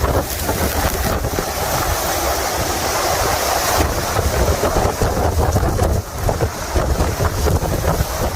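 Strong, gusty wind rushing and buffeting the microphone, with a heavy low rumble that rises and falls.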